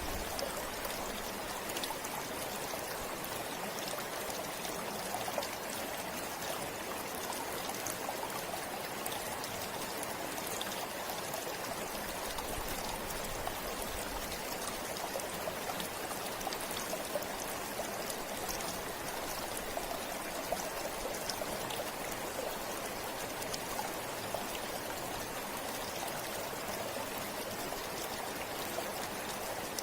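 River water flowing steadily over rocks, an even rushing with small splashes and trickles through it.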